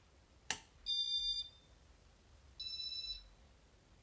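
Casablanca IntelliTouch fan control's sound box beeping out the selected speed, with two electronic beeps of about half a second each, well spaced. Just before them there is a sharp click as the control is switched.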